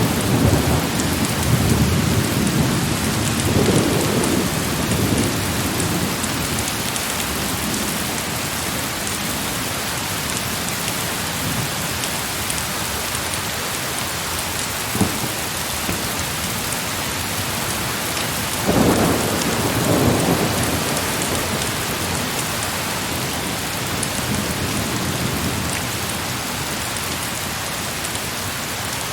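Heavy rain falling steadily, with a rumble of thunder dying away over the first few seconds and another rolling peal about 19 seconds in. A single sharp click sounds about halfway through.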